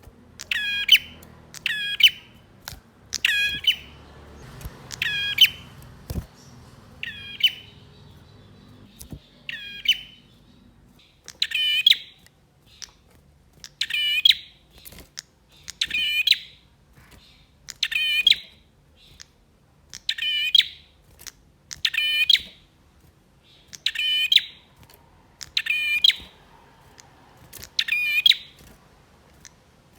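Male prinia (prenjak) calling: short, sharp chirping phrases repeated about once a second.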